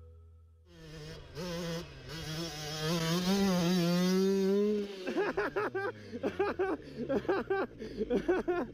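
Dirt bike engine revving hard under load in deep snow, its pitch climbing and dipping, until the note drops away about five seconds in. Short, choppy wavering sounds follow.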